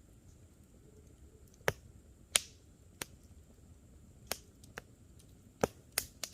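Campfire crackling: wood in the fire pops in sharp, irregular snaps, about eight in a few seconds, the loudest around two seconds in, over a low steady hiss.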